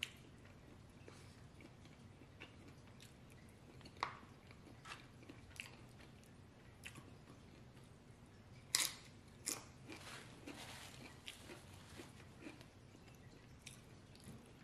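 A person eating a burrito bowl: faint chewing and mouth sounds with scattered small clicks, and two louder crunching bites about nine seconds in.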